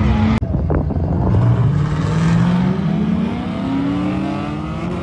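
Car engine accelerating hard, its pitch climbing over a few seconds and then falling away near the end. A sharp click about half a second in.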